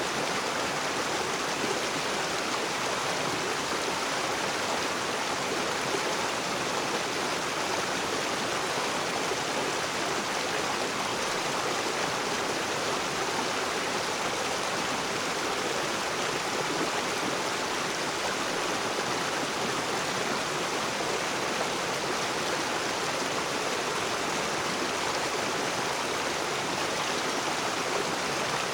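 A rocky river rushing steadily over stones, a continuous, even water noise.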